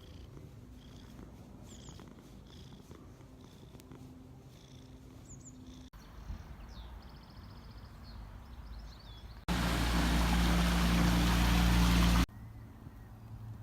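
Faint bird chirps and a short high trill, then an abrupt cut to about three seconds of loud, steady low rumble with a hum that stops suddenly.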